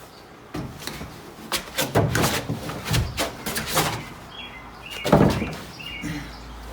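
Crinkling, rustling and knocking as foil-backed sound-deadener sheets are handled and pressed onto the car body's sheet metal, with heavier knocks about two, three and five seconds in. A bird chirps a few times in the background.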